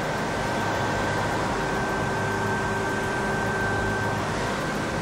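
Steady mechanical running noise: an even hiss with a constant low hum and a thin high whine that fades out near the end.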